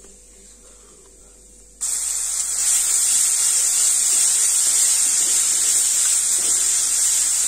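Garlic paste dropped into hot mustard oil with cumin seeds in a steel kadhai: a loud sizzle starts suddenly about two seconds in and carries on steadily as it fries.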